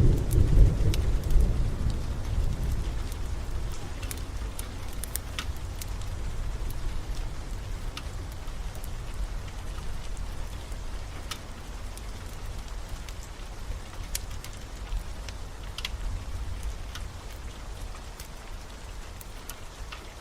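Steady rain, with a low roll of thunder at the start that dies away over the first few seconds. Scattered sharp crackles and pops from a fireplace fire run through it.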